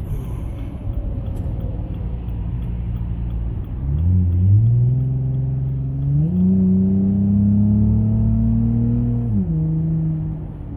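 Dodge Journey engine under acceleration on the road, before its tune: a steady engine note whose pitch climbs about four seconds in, jumps higher about six seconds in and keeps rising slowly, then drops back near the end.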